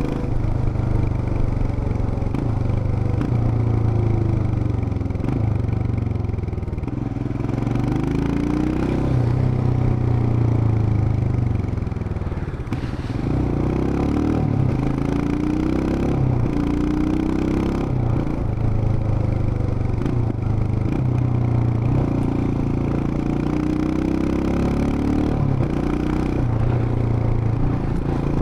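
Royal Enfield Himalayan's 411 cc single-cylinder engine and exhaust running on the move, the pitch climbing and falling again and again as it accelerates and shifts, with a short dip in revs about twelve seconds in.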